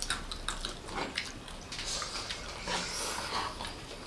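Several people chewing and eating fried chicken and spaghetti close to the microphone, with scattered small mouth smacks and clicks of plastic forks.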